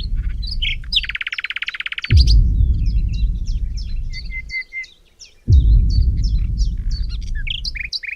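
Small birds chirping and twittering, with a buzzy trill about a second in. Over them come stretches of loud low rumbling noise that cut in and out abruptly, two to three seconds each; these are the loudest sound.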